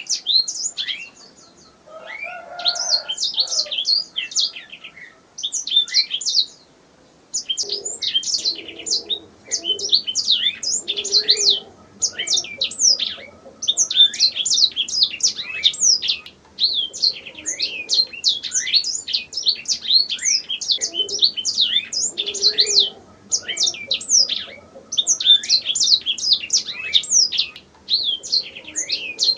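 Domestic canary singing: long runs of rapid trills and chirps, broken by short pauses about two and six seconds in.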